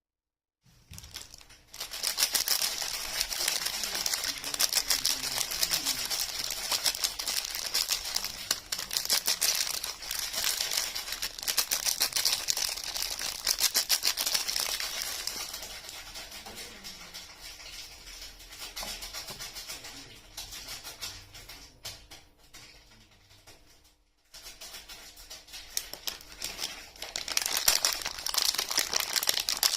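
Close-up crinkling and crackling of soap packaging being handled and unwrapped. It is dense and continuous, quieter for a while in the middle, cuts out briefly about three-quarters of the way through, then picks up louder again.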